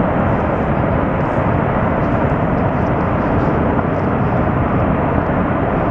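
Ice avalanche off a hanging glacier: falling ice crashing down onto the glacier below makes a steady, loud rumble that does not let up.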